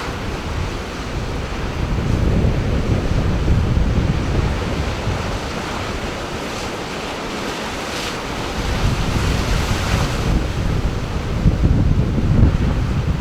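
Sea surf breaking and washing ashore, with gusts of wind buffeting the microphone in low rumbling surges; a brighter hiss of water swells about eight seconds in.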